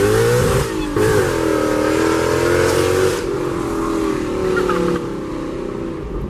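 Ford Mustang's engine and exhaust heard from inside the cabin under acceleration. Revs climb, drop sharply for a moment about a second in as it shifts gear, then climb again. After about three seconds the car eases off and the sound gets quieter.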